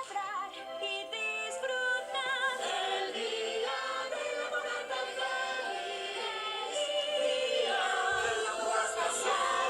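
Music with a choir singing long held notes with vibrato over the accompaniment.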